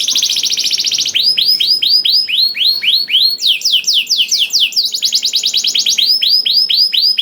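Domestic canary singing a long, unbroken song: a very fast trill, then repeated rising chirps about four a second, a run of quick falling sweeps, another fast trill and more rising chirps.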